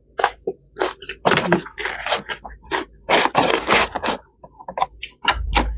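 Close-miked chewing of crunchy shredded green papaya salad: a fast, irregular run of crisp crunches and clicks. A plastic food container crackles as fingers pick at the food, and there is a dull bump near the end.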